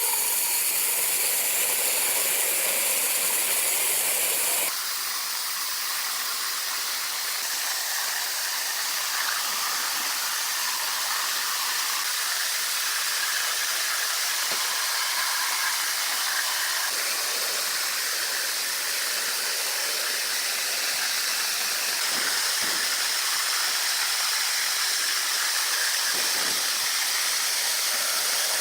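Steady hissing noise, high and even without any clear rhythm, which shifts slightly about five seconds in.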